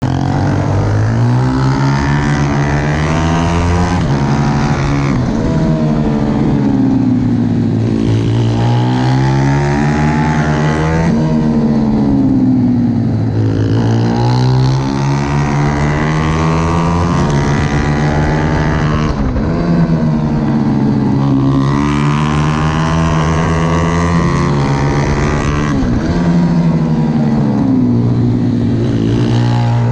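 On-board sound of a 140cc racing pit bike's single-cylinder engine at full throttle around a track, the revs climbing and dropping repeatedly as it accelerates, shifts gear and brakes for corners.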